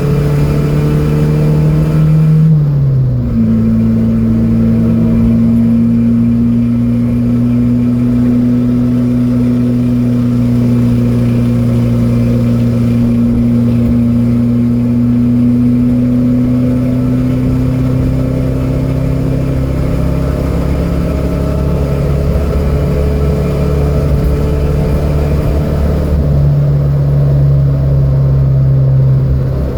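Datsun B210's engine pulling hard at speed, its note dropping at a gear change about three seconds in, then climbing slowly and steadily for a long stretch, with another change in note near the end.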